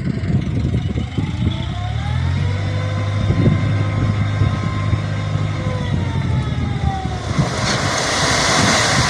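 Hino Dutro dump truck's diesel engine raised in revs with a rising whine that holds steady and then falls away after about five seconds, as when the hydraulic pump tips the bed to unload. A loud rushing hiss follows near the end.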